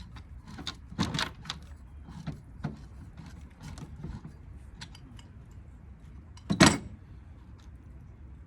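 Metal clinks and knocks from hand tools and parts while a ceiling fan motor is taken apart for its copper. There is a cluster of knocks about a second in and one loudest knock about two thirds of the way through.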